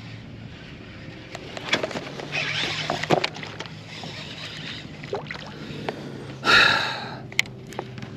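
Knocks and clicks of handling in a plastic kayak, with water sloshing and a brief louder rush of water about six and a half seconds in, over a low steady hum.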